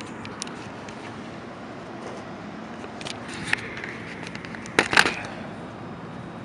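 Steady rumble of a bi-level commuter train standing at the platform, with a few light clicks. About five seconds in, a quick cluster of sharp knocks as the camera is set down on a metal platform bench.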